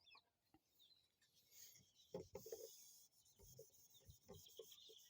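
Near silence, with a few faint short scratching or rubbing sounds: a small cluster about two seconds in and scattered ticks near the end.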